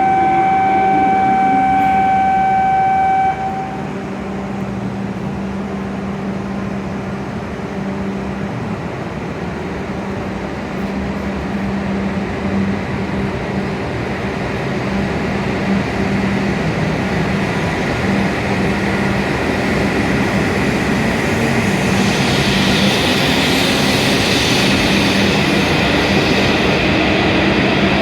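E7-series shinkansen pulling out of the station and gathering speed, its running noise building steadily and a brighter rushing hiss joining about two-thirds of the way through. At the start a steady electronic tone sounds, then cuts off about three seconds in.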